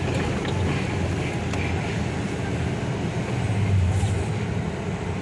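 Inside the cab of a MAN TGA truck on the move: the D2876 diesel engine and road noise make a steady low drone that grows briefly louder a little before four seconds in.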